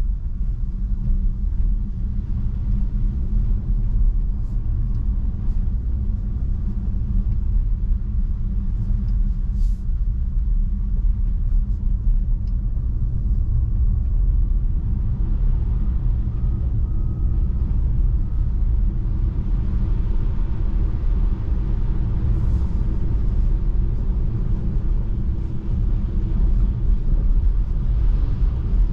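Tesla Model 3 tyre and road noise: a steady low rumble while driving on a snow-covered road.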